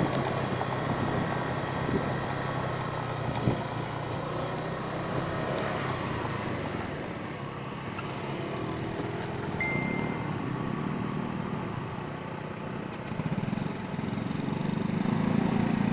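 Small vehicle engine running steadily, growing louder for a while about ten seconds in and again near the end.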